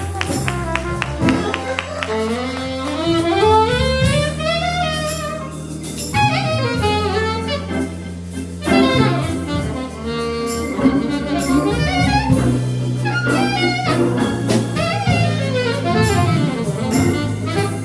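Jazz instrumental music: a saxophone plays quick rising and falling runs over a walking bass line and drum kit.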